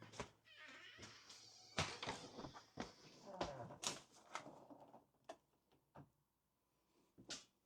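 Irregular knocks, clicks and short scrapes of objects being handled, busiest in the first half and thinning to a few separate clicks near the end.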